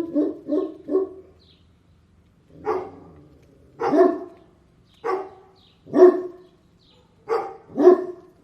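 Dog barking: a quick run of three short barks ending about a second in, a pause of about a second and a half, then six single barks roughly a second apart.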